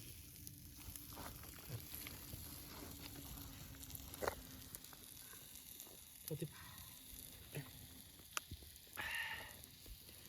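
Faint campfire crackling: scattered sharp pops and snaps over a low hiss.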